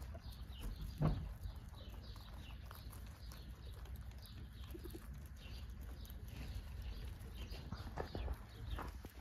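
Small birds chirping over and over in the background, short falling chirps, above a steady low rumble. A single knock about a second in is the loudest sound.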